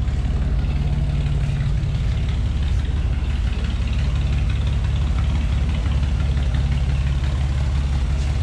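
A vehicle engine idling steadily: an even, low rumble.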